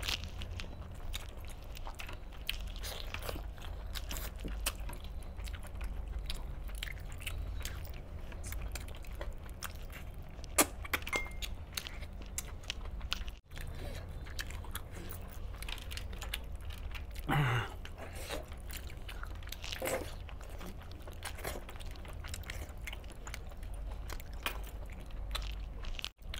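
Close-up mouth sounds of a man eating chicken on the bone in wet gravy with his hands: chewing, biting and wet smacking, with scattered sharp clicks, over a steady low hum.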